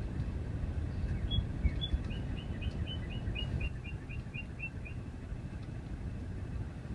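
A songbird sings: two single chirps, then a quick trill of about a dozen evenly spaced notes, roughly four a second, that stops about five seconds in. A steady low rumble runs underneath throughout.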